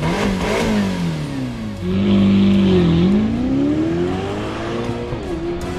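Ferrari California T's 3.8-litre twin-turbo V8 revving and accelerating: the engine note falls and rises several times, runs loudest and steady about two seconds in, then climbs steadily in pitch as the car accelerates.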